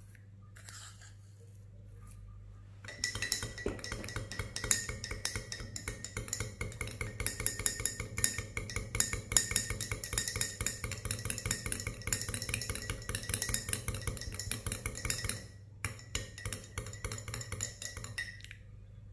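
A spoon stirring sugar into hot spice tea in a glass, clinking rapidly and continuously against the glass. It starts about three seconds in, stops briefly near the end, then goes on for another couple of seconds before stopping.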